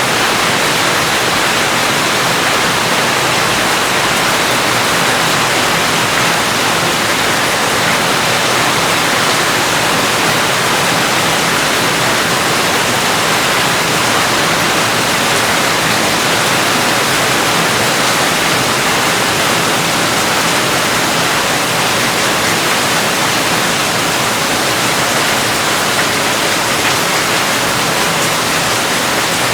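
Steady rain falling as a dense, even hiss with no breaks or single drops standing out.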